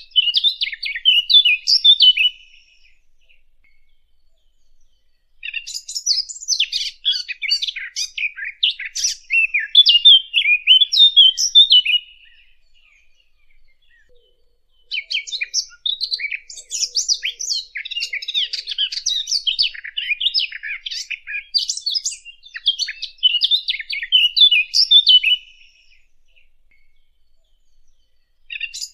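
Fig bird song: fast, jumbled, high-pitched warbling and chattering in three long bouts separated by pauses of a few seconds.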